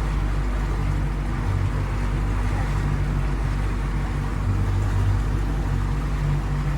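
Motorboat engine running steadily under way, a low even drone with a rush of wind and water over it.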